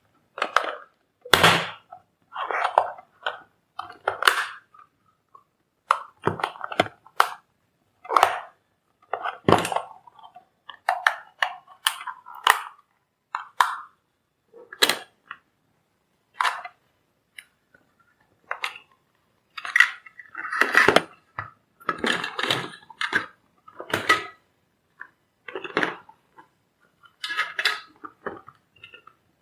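Irregular sharp clacks, knocks and clinks of hard objects being handled on a repair bench: tools against the plastic case of a switch-mode power supply adapter. They come in scattered single hits and short clattering clusters, busiest about two-thirds of the way through.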